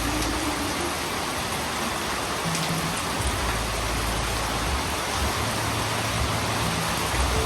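Heavy rain falling in a steady hiss, with a low rumble coming and going underneath.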